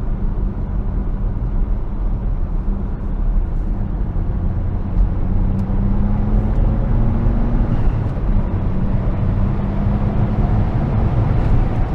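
Saab 9-3 Turbo X's turbocharged V6 running at road speed, heard from inside the cabin along with road and wind noise. The engine note climbs slowly for a couple of seconds about halfway through, drops back, then holds steady.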